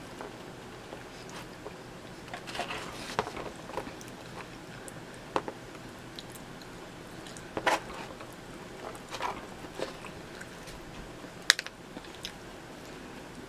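Close-miked eating of sausage and pepperoni pizza: biting and chewing with irregular sharp mouth clicks and short crackly bursts, the sharpest click about eleven and a half seconds in.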